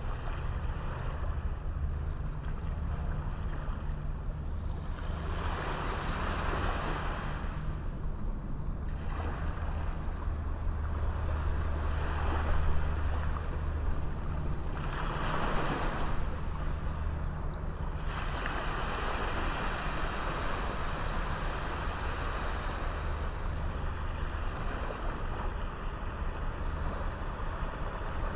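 Small ocean waves breaking and washing up a beach, coming in several surges, the longest in the second half. A steady low rumble runs underneath.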